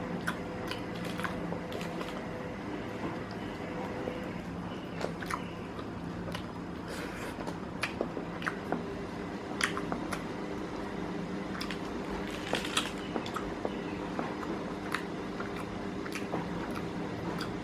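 A person eating ayam roast, chicken in a red spicy sauce: chewing and biting, with scattered small clicks and taps from handling the food, over a faint steady hum.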